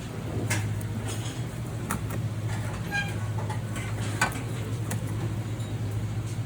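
Restaurant kitchen background: a steady low hum of kitchen equipment with a few scattered clinks and knocks, and a brief high ding about halfway through.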